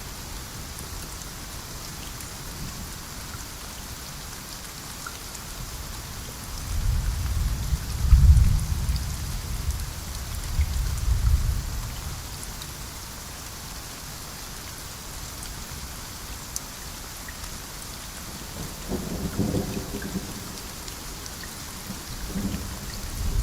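Steady rain falling, with low rumbles of thunder: a long roll from about seven to twelve seconds in, a shorter one around twenty seconds, and another starting near the end.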